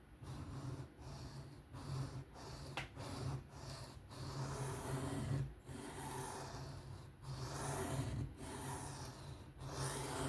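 Folding knife blade stroked back and forth across a 400-grit sharpening stone: a repeated gritty rasp of steel on abrasive. About six quick strokes in the first four seconds, then longer strokes of roughly a second and a half each.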